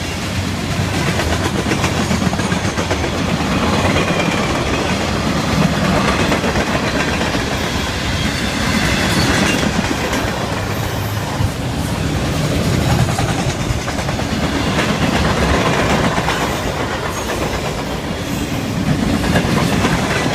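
A train's cars rolling past close by, with a steady rumble and the clickety-clack of wheels over the rail joints.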